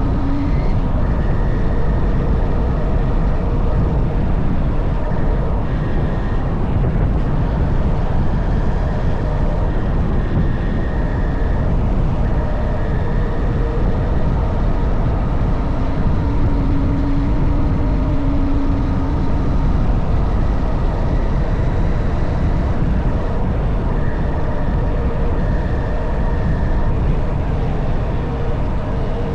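Honda CB190R's single-cylinder engine running steadily under way, with a dense rush of wind and road noise.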